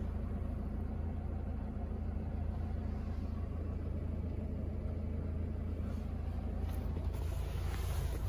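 Volvo XC90 D5's diesel engine idling, a steady low rumble heard inside the cabin, with a few faint knocks near the end.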